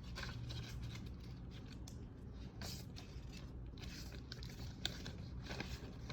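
Set packaging being handled: a stream of irregular rustles and scrapes of cardboard and paper, with no pause longer than a moment.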